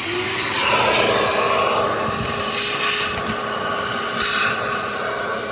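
Vacuum cleaner switching on and running steadily, sucking leftover wood pellets and pellet dust out of a pellet smoker, with a brief rise in pitch as the motor spins up and two short louder hisses partway through.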